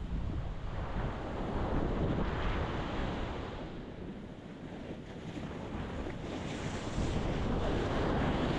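Ocean waves breaking against a rocky shore: a continuous wash of surf that swells about two seconds in and again near the end.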